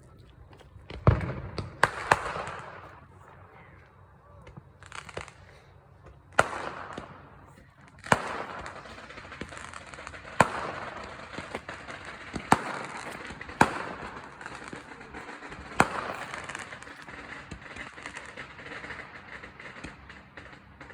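Fireworks and firecrackers going off: about ten sharp bangs at irregular intervals of one to two seconds, several trailing off into a brief noisy tail.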